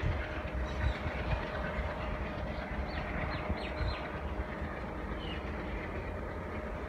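Passenger express train running away along the track: a last wheel knock over the rail joints about a second in, then a steady low rumble of wheels on rail as it recedes.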